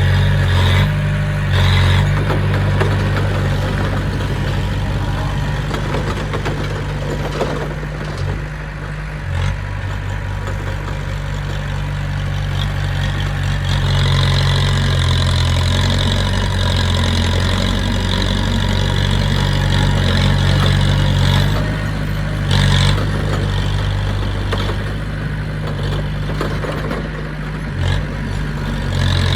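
Diesel engine of heavy earthmoving equipment running steadily, with a constant low note. About halfway through, a higher steady whine is added for several seconds.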